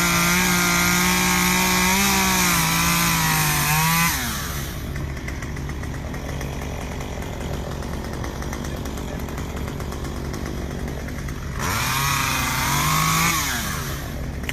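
Small engine held at high revs, dropping to a low idle after about four seconds, then revving up briefly again near the end.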